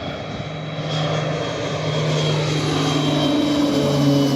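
Landing propeller aircraft's engines passing close by: a loud steady drone that grows a little louder about a second in, with a high whine that slowly falls in pitch.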